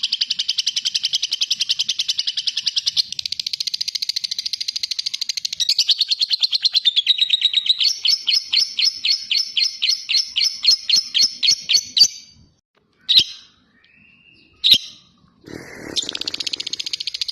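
Lovebird 'ngekek': a long, rapid chattering trill of high notes that shifts pace a few times, slowing to about five distinct notes a second late on. It breaks off about twelve seconds in, with two short sharp chirps and a brief lower noise, then the rapid trill starts again near the end.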